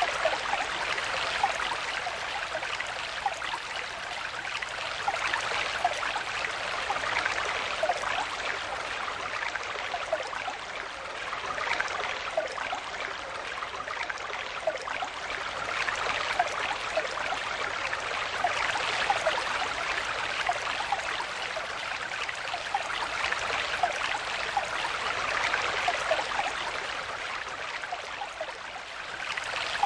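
Shallow stream flowing steadily over stones, a continuous rush of water with small splashes and gurgles, swelling and easing slightly in loudness.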